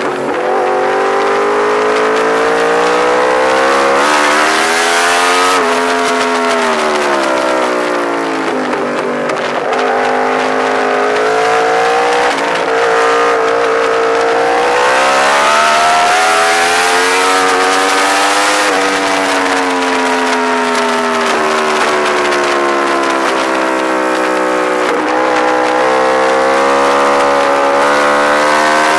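Onboard sound of a Yamaha R1's inline-four engine at track speed, its revs climbing for several seconds at a time, then dropping sharply as it shifts up or slows for the corners, over the rush of wind on the microphone.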